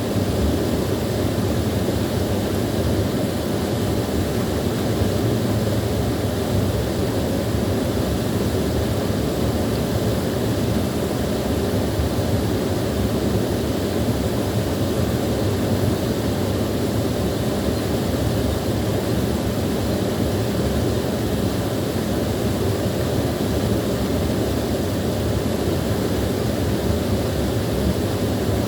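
Small waterfall splashing and rushing steadily, its sound mostly low and unchanging.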